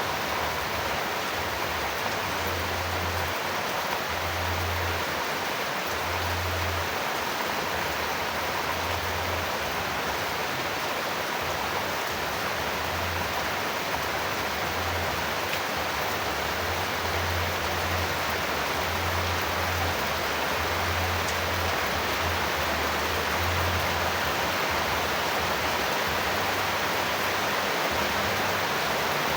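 Steady, even rain noise with no breaks, a continuous hiss of falling rain used as a sleep sound.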